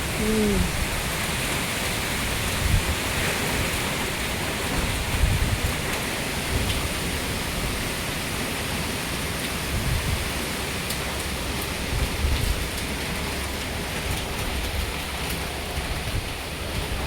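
Steady hiss of heavy rain in a strong windstorm, with gusts buffeting the microphone in recurring low rumbles.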